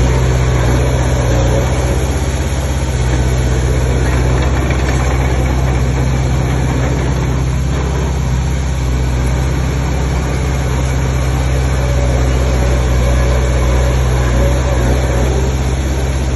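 Heavy earthmoving machine's diesel engine running steadily, with a deep even drone and no clear change in speed.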